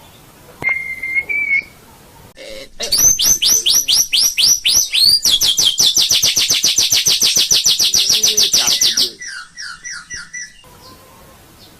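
White-rumped shama (murai batu) singing. A brief whistle comes first. Then a loud, rapid run of downward-sweeping notes speeds up to about ten a second, lasts about six seconds and trails off into a few softer notes.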